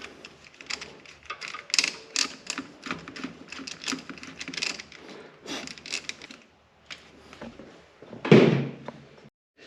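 Hose clamps being fitted and tightened on a tractor's air intake hose: a quick run of small metallic clicks and rattles, then a single louder knock about eight seconds in.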